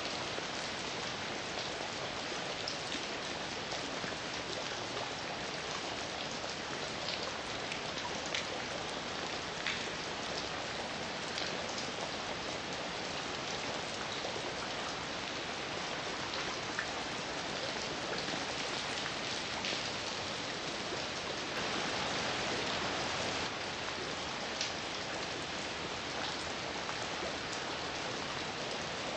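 Steady heavy rain falling, with individual drops striking a surface now and then, and a slightly heavier stretch about two-thirds of the way through.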